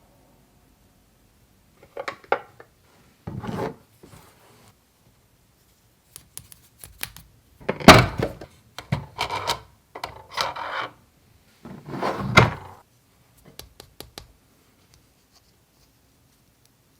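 Miniature toy kitchen pieces being handled and set down: a series of short rubs, clicks and knocks in separate bursts, loudest about eight seconds in and again about twelve seconds in.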